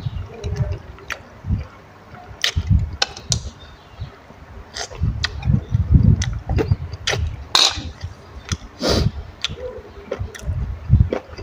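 Close-miked chewing and wet mouth sounds of someone eating by hand. Irregular low thumps come with scattered sharp smacks and clicks, busiest in the middle of the stretch.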